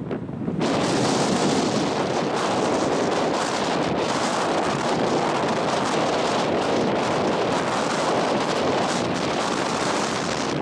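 Strong coastal wind buffeting the microphone: a loud, steady rushing roar, with a brief lull right at the start.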